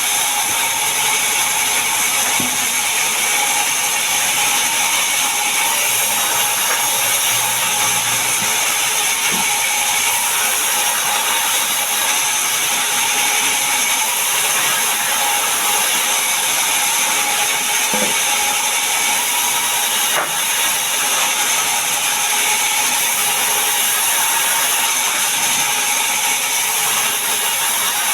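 Power saw running steadily while sawing mahogany wood, a continuous loud machine noise with a steady high whine.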